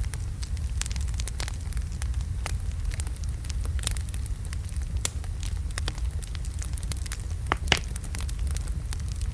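Wood logs burning in a fireplace: a steady low rumble of the fire with irregular sharp crackles and pops, two louder pops a little past seven and a half seconds in.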